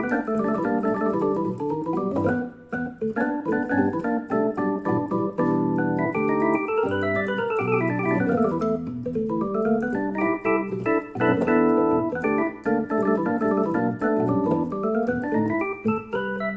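Casio CT-S1 portable keyboard played with an organ voice: chords with quick runs of notes that sweep up and back down, twice.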